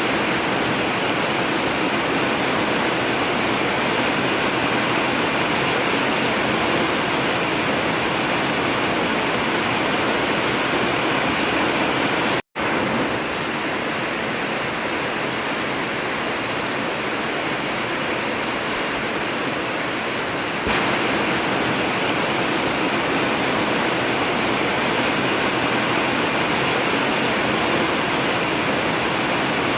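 Heavy rain falling steadily on an old zinc roof, an even hiss. It cuts out for a split second about twelve seconds in, and it gets slightly louder a little after twenty seconds.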